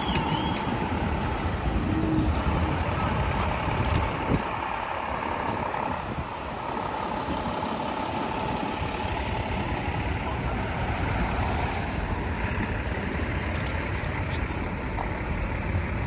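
City street traffic with a truck going by: a steady rumble of engines and tyres, with a faint steady whine through the first ten seconds and brief high squeals near the end.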